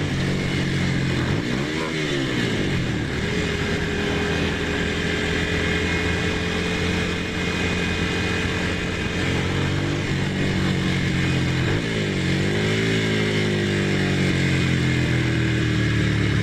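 Ducati Monster's V-twin engine running under way at a mostly steady pitch. The engine note dips and recovers twice, about two seconds in and again about twelve seconds in, with wind noise underneath.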